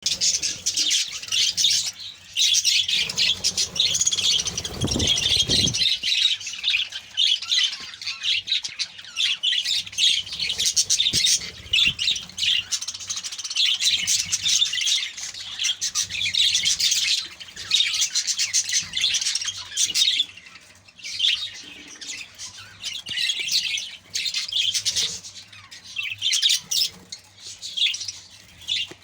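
A flock of budgerigars chattering and chirping continuously, many birds at once in fast warbling calls. A brief low rumble comes through a few seconds in.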